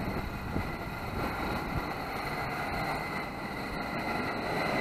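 Regional train rumbling on the track beside the platform, with a faint steady high-pitched squeal that grows louder toward the end.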